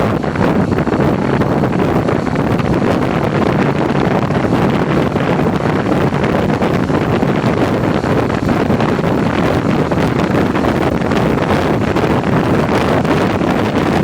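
Wind noise on the microphone of a touring motorcycle on the move, over a steady rush of road and engine noise.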